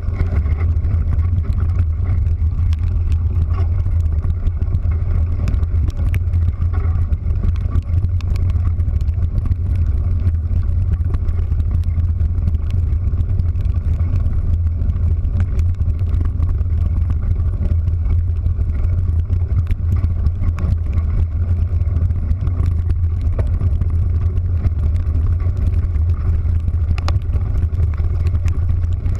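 A vehicle's engine running at a steady speed, a constant low drone with a steady noise over it, and scattered light ticks throughout.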